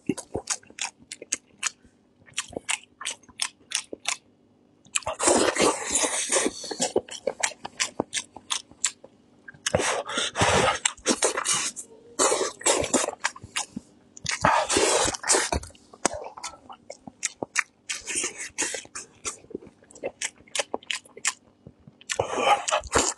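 Close-miked chewing and biting of soft braised lion's head pork meatballs: a run of small wet mouth clicks and smacks, with louder stretches of chewing every few seconds.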